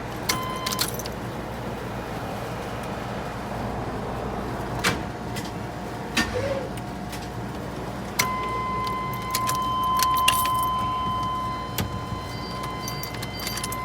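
A car with a swapped 6.0 L LS engine gives a steady low mechanical hum, with scattered clicks and keys jingling. A steady high electronic tone comes in about eight seconds in and holds.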